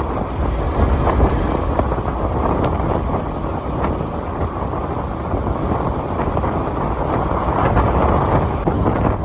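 Wind buffeting the microphone of a moving motorcycle, a steady dense rush with the riding noise underneath.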